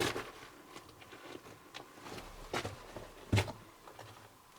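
Footsteps on the rock and gravel floor of a mine tunnel: a few uneven steps, the firmest about three seconds in.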